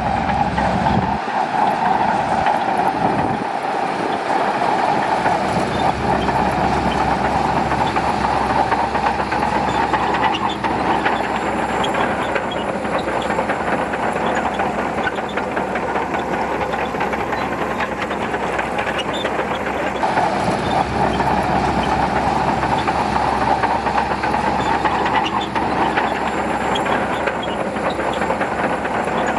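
Shantui DH17C2 crawler bulldozer working: its diesel engine runs steadily under the dense clatter of its steel tracks.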